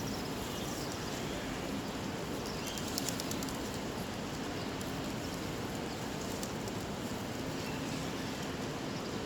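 A flock of birds heard over a steady outdoor background din with a faint hum, and a brief flurry of sharp clicks about three seconds in.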